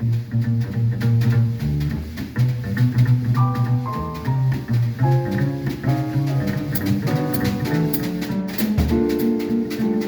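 Live jazz quartet playing: a double bass moving from note to note under a drum kit with busy cymbals, and a melody line above.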